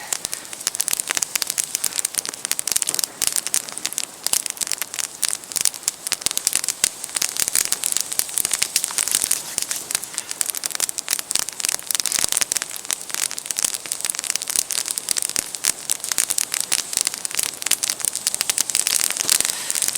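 Wood campfire crackling and popping in a dense, irregular run of sharp snaps as freshly added wood catches and burns up.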